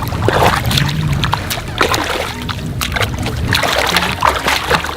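Water splashing and sloshing in irregular bursts as a large hooked black sharkminnow thrashes at the surface beside the boat during landing, over a steady low rumble.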